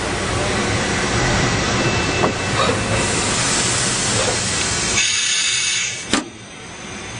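Wasino SH 5DM multi-axis CNC lathe running, with a steady hissing, rumbling machine noise. About five seconds in a brighter hiss starts, then a sharp clack comes about six seconds in, and after it the sound is quieter.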